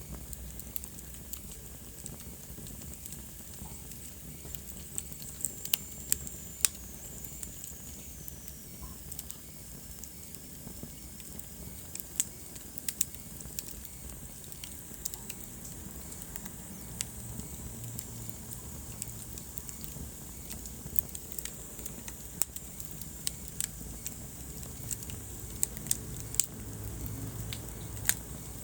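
Wood fire burning in a fireplace: irregular sharp crackles and pops over a low steady rumble of flame. A thin high whistle slides down in pitch around six to ten seconds in.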